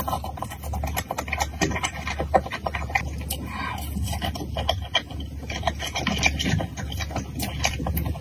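Close-miked eating: chewing and smacking of skewered fried starch sausage, with many quick wet clicks.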